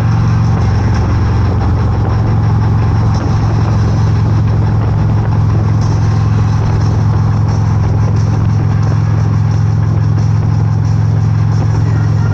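Motorcycle engine running at a steady, unchanging speed, with an even rush of wind noise over it.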